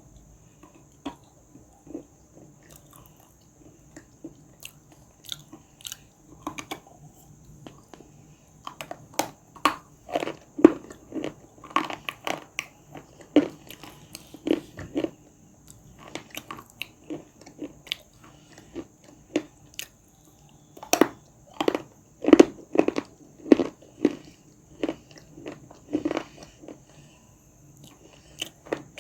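Clay being bitten and chewed close to the microphone: many short, crisp crunches, coming thickest in two spells in the middle and later part.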